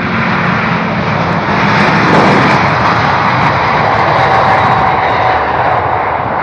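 Jet airliner passing close by. Its engine noise swells to a peak about two seconds in and then eases off, with a faint whine sliding lower in pitch as it goes past.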